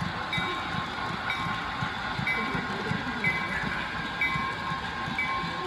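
HO scale Proto 2000 GP9 model locomotive with a DCC sound decoder running, its diesel engine sound mixed with running noise. A short high ding repeats about once a second, like a locomotive or crossing bell.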